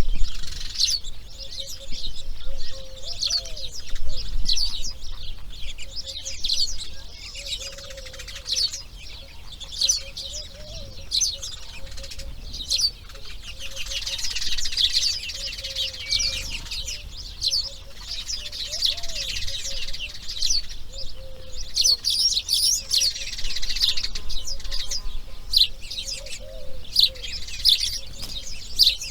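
Songbirds chirping and singing continuously in a dense outdoor bird chorus, with a lower wavering call repeating every second or so beneath the high chirps.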